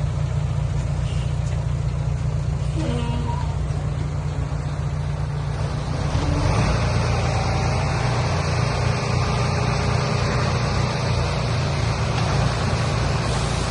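Heavy truck engine running steadily with a low rumble. About six seconds in, a broad rushing noise rises over it and stays.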